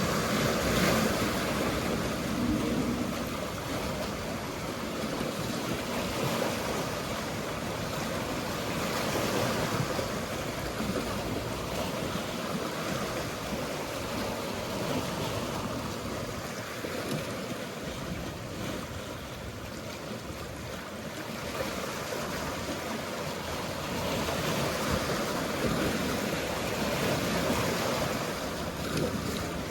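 Mediterranean sea waves washing, a steady noisy wash that swells and eases every several seconds. A low hum from a distant boat engine sits under it in the first few seconds.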